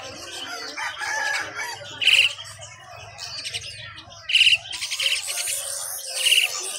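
Nestling birds calling: a loud, shrill call repeated about every two seconds, with softer chirps and twitters in between.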